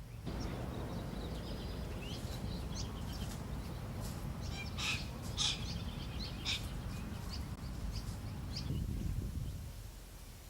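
Birds calling outdoors: a scatter of short, high chirps and quick sweeping notes, thinning out near the end, over a steady low rumble.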